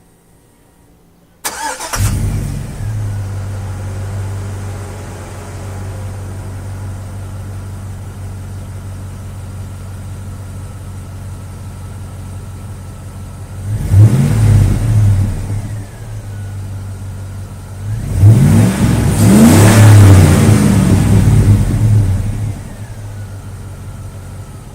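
2003 GMC Sierra pickup engine heard through a GM Performance Parts exhaust: it starts about a second and a half in and idles, is revved briefly, then is revved again for several seconds before dropping back to idle.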